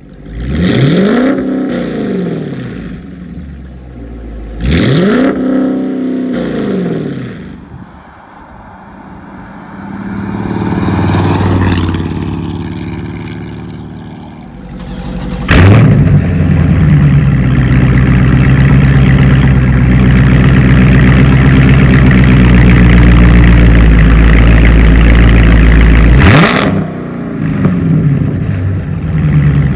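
Dodge Challenger HEMI V8 with a loud aftermarket exhaust being revved: two short blips that rise and fall, then the engine held at high revs, steady and loud, for about ten seconds, then more quick blips near the end.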